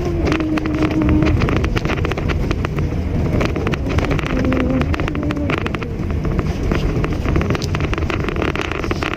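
Mitsubishi Mirage hatchback driving: a steady engine and road rumble with wind noise, with frequent small clicks and rattles and a faint engine tone that shifts pitch now and then.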